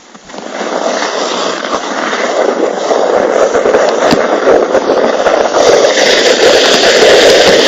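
Plastic hip sled sliding over packed snow: a steady scraping hiss that starts a moment in and grows louder, with low uneven rumbles joining from about three seconds in.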